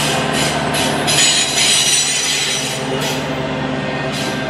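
Freight cars of an intermodal train, trailers on flatcars, rolling past on the rails: steady wheel-on-rail rumble with high ringing squeal tones, easing a little as the last cars go by.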